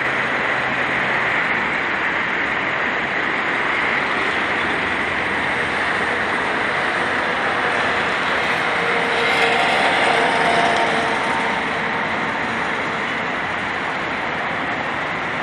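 Steady rushing noise of road traffic, swelling a little about nine seconds in and easing off again by about twelve seconds.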